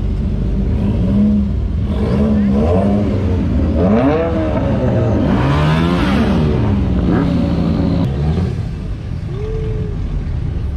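Car engines revving as cars pull out of a parking lot, the pitch rising and falling in several quick revs, with the loudest run of revs about four to six seconds in and one short rev near the end.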